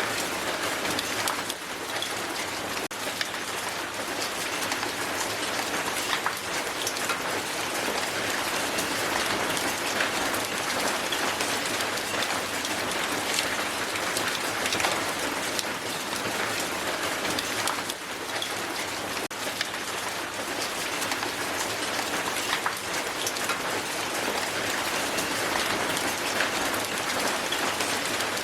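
Hailstones falling hard on a surface: a steady, dense hiss of countless small impacts, with sharper individual clicks of stones striking scattered through it.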